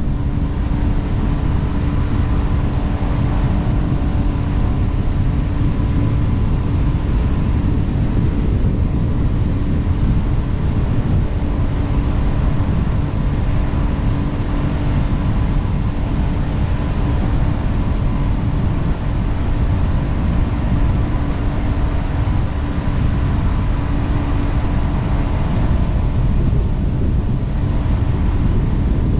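Jet boat running under way: a steady, loud rumble of engine and water. A steady hum in it fades near the end.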